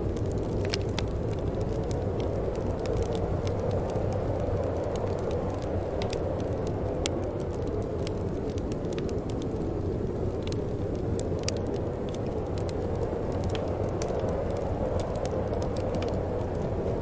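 Steady low wind blowing without gusts, with faint scattered crackles and ticks over it.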